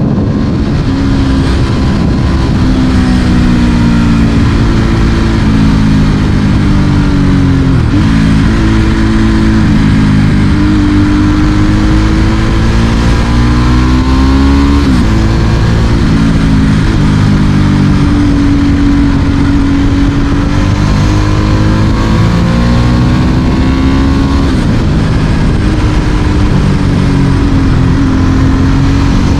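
Ducati Monster S4R's L-twin engine through a straight Mivv exhaust, pulling through the gears. Its pitch climbs steadily and drops sharply at each gear change, several times.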